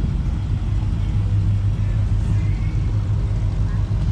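Car engine running at low speed with a deep, steady exhaust rumble, loudest in the middle.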